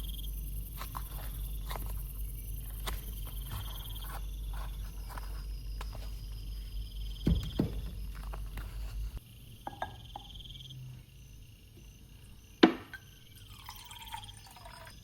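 Scattered light clicks and knocks over a low steady hum that stops about nine seconds in, with one sharp, loud knock near the end.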